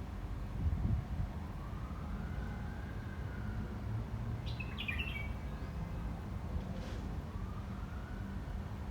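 Wind rumbling on the microphone, with a faint distant siren wailing up and down twice and a brief burst of bird chirps about halfway through.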